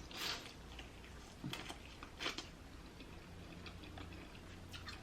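Person chewing a mouthful of corn, with a handful of short, soft smacks and clicks from the mouth spread through it.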